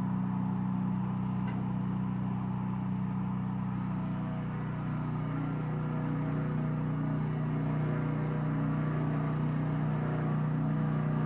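Petrol engine of a homemade swing blade sawmill running steadily, its note dropping a little about halfway through and holding there. A rattle comes from the sawmill's belt guard, which is secured only at the top by two bolts.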